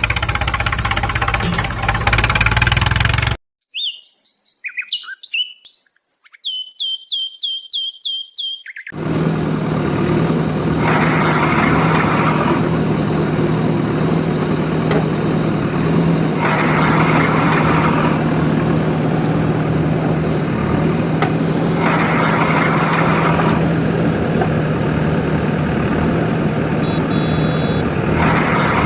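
A vehicle engine running, broken off after about three seconds by a run of bird-like chirps, then a steady engine drone that swells in loudness about every five or six seconds.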